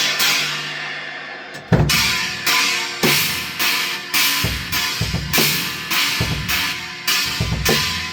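Drum kit being played with china cymbals, one a new Wuhan china. A cymbal rings and fades, then a loud crash with a kick drum hit comes in about two seconds in, followed by a steady beat with a cymbal struck about twice a second over kick-drum thumps.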